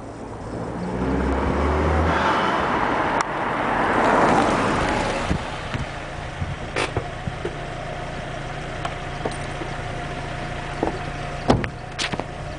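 Audi A4's 1.8-litre turbocharged four-cylinder engine with standard exhaust accelerating, its note rising in pitch and loudest about four seconds in, then settling to a steady hum. A few sharp clicks near the end.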